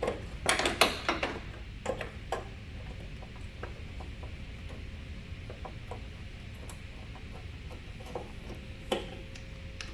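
Hand tools and screws clicking and knocking on the metal grille trim of a Chevy pickup as 7mm screws are taken out: a cluster of sharp knocks in the first second or so, then scattered light ticks.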